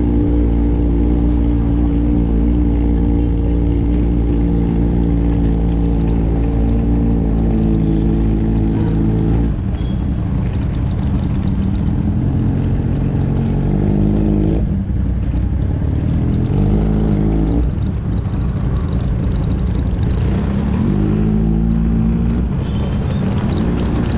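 Motorcycle engine running at a steady idle, then from about ten seconds in revving and pulling away in several short rising runs, as if through the gears.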